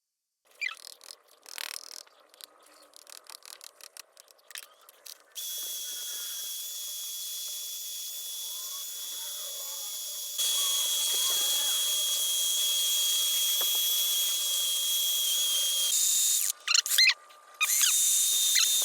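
A small power tool runs with a steady high whine on old gasket material on a cylinder head, getting louder about halfway through and stopping near the end. Before it there is scattered scraping and clicking, and after it sharp squeaky scraping on the metal.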